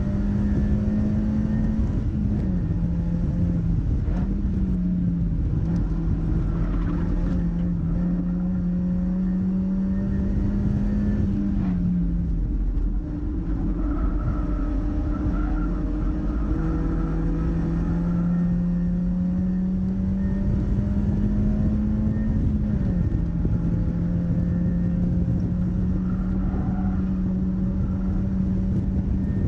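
Mazda MX-5's four-cylinder engine running hard at track speed. Its steady note steps up and down several times with gear changes and lifts, over heavy road and wind rumble.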